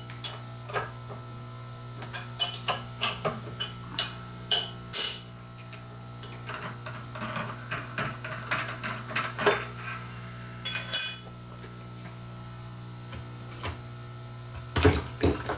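Steel tools and parts being handled at a milling machine: irregular metal clinks, taps and knocks, in clusters with pauses between, over a steady low hum.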